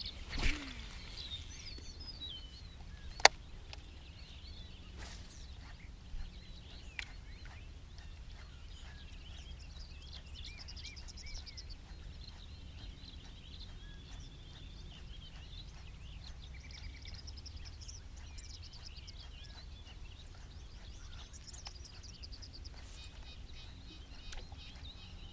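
Birds chirping and singing in the background over a steady low rumble, with a few sharp clicks; the loudest click comes about three seconds in.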